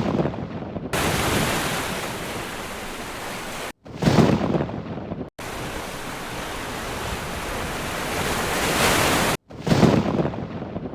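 Heavy rain pouring down in a steady, loud hiss, broken by three bursts of thunder: one at the start, one about four seconds in, and one near the end. The sound drops out abruptly for a moment between them.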